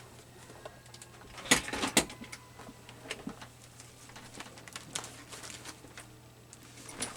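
A storage box of craft supplies being handled: two sharp knocks about a second and a half and two seconds in as it is set down or opened, then light clicks and rustles.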